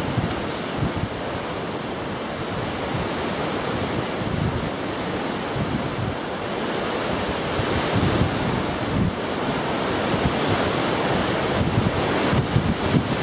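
Strong, gusty wind buffeting the microphone: a steady rushing noise with uneven low rumbling thumps, growing louder toward the end.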